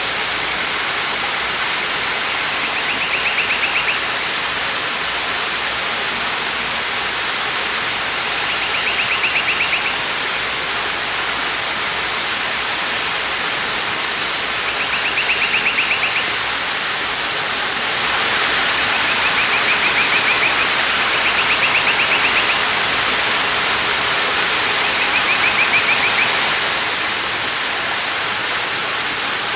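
Waterfall rushing steadily, a little louder for several seconds past the middle. A short high-pitched trilling call, about a second long, recurs every few seconds over it.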